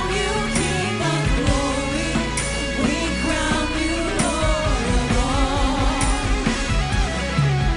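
Live worship band music with singing: voices and instruments over a full low end, with a regular drum accent roughly every two seconds.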